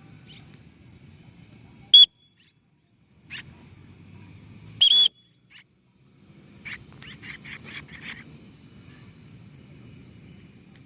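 Two short, loud, shrill whistles about three seconds apart, then a quick run of about seven high chirps from a bird.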